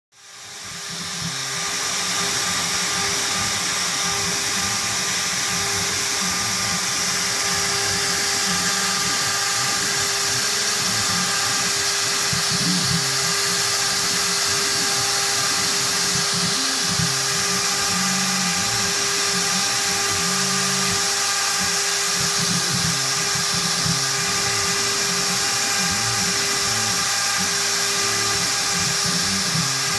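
CNC router spindle running at high speed with a steady whine, cutting G10 fibreglass quadcopter frame plates, with a shifting low rumble beneath as the machine moves along the cut. The sound fades in over the first second or so.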